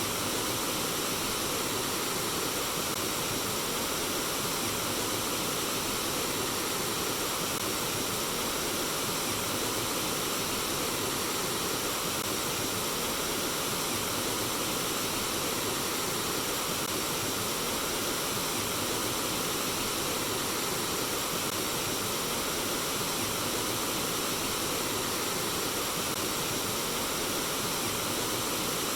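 Flowing water running in a steady, even rush with no pauses or changes.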